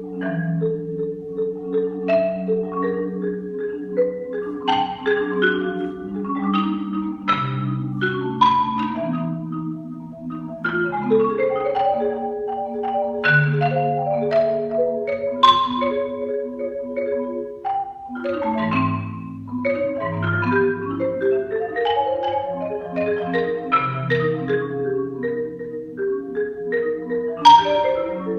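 Solo marimba playing: long held notes in the low and middle register with quicker struck notes ringing above them.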